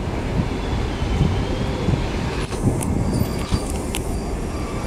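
Passenger train coaches rolling slowly along the rails in the rain: a steady low rumble, with a few sharp clicks about midway.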